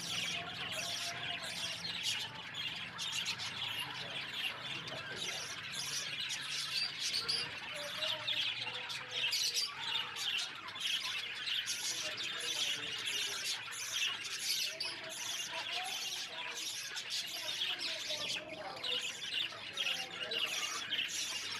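Birds chirping and squawking without a break, many short calls overlapping.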